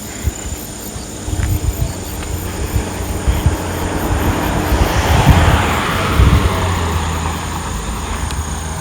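A vehicle passing by: its noise swells to a peak a little past midway and then fades away, over a low rumble.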